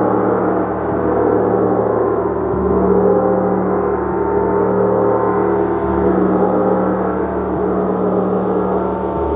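Gong played continuously with soft, regular mallet strokes about every one and a half to two seconds. The strokes build a dense, sustained wash of many overlapping ringing tones that keeps an even loudness.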